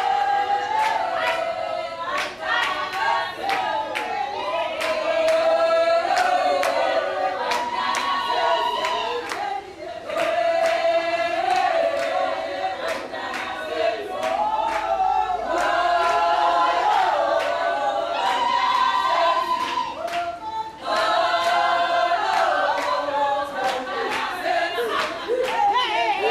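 A group of women singing a song of blessing together, unaccompanied, with sharp regular claps keeping time.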